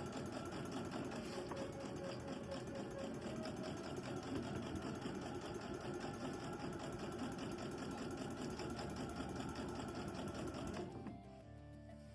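Sewing machine running at a steady, fast stitch for about eleven seconds, then stopping, with soft background music.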